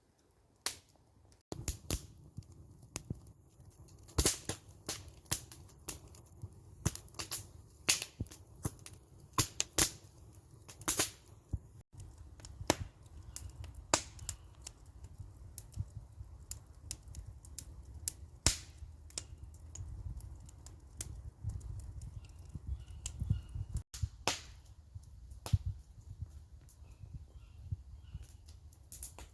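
Wood campfire crackling, with sharp, irregular pops and snaps several times a second over a low rumble, as it burns down toward coals.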